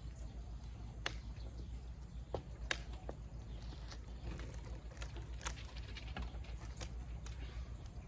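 Rubber bands being stretched and let go onto a watermelon: a few sharp snaps at irregular intervals over a low steady hum.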